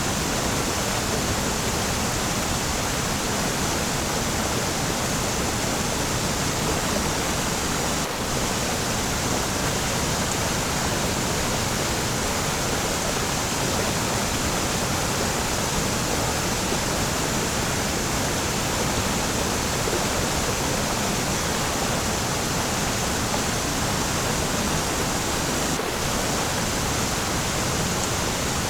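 Waterfall, falling water rushing with a steady, even, unbroken sound.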